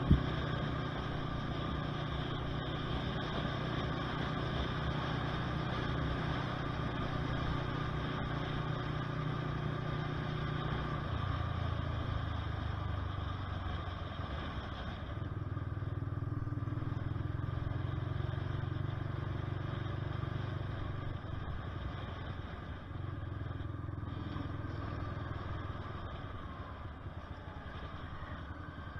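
Honda CBR125R's single-cylinder four-stroke engine running under way, its note shifting in steps several times.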